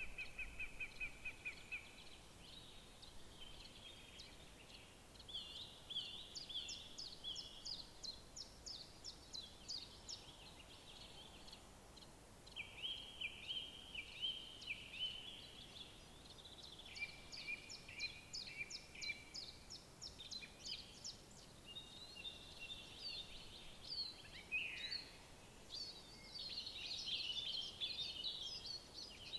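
Several songbirds singing one after another, with rapid trills, runs of quick high repeated notes and short whistled phrases, over a faint steady background hiss.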